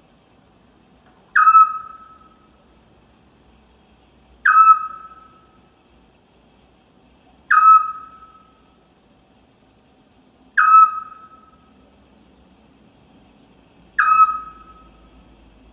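An owl calling at night: one short, clear whistled note repeated about every three seconds, five times, each dropping quickly onto a steady pitch and trailing off with an echo.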